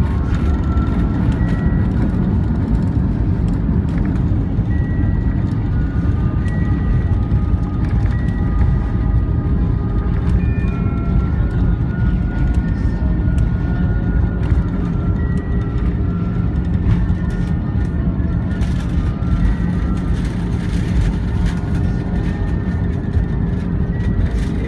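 Airbus A320 cabin noise from a rear window seat: a steady, deep roar of the engines and airflow with no clear rise or fall.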